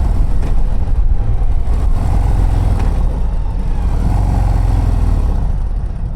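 2024 Harley-Davidson CVO ST's stock Milwaukee-Eight 121 V-twin engine running under throttle while riding. The level eases slightly near the end.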